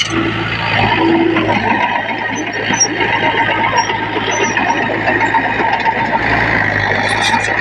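Diesel engines of heavy earthmoving machinery running steadily, with a constant low hum under a busy rattle.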